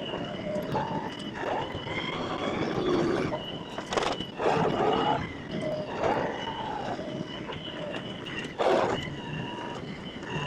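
LS XR315 compact tractor's diesel engine running under load while the front grapple drags the pond bank in float mode, with a steady high whine over it. Two sharp knocks come about four and nine seconds in.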